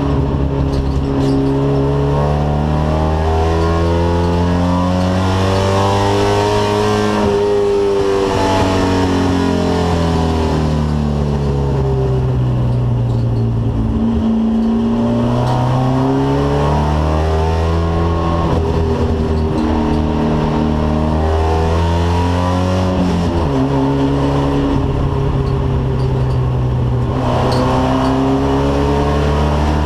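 Alfa Romeo car engine running hard and continuously, its pitch climbing under acceleration and falling away again several times. There is an abrupt drop in pitch about two-thirds of the way through, like a gear change or a lift off the throttle.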